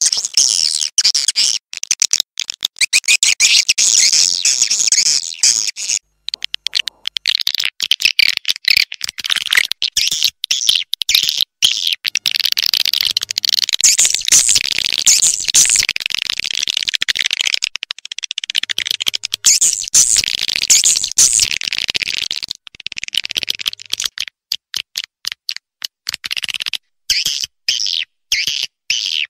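Swiftlet calls: dense, rapid high chirping and twittering, chopped by frequent short gaps. It is a swiftlet sound track of the kind played to draw swiftlets into nesting houses.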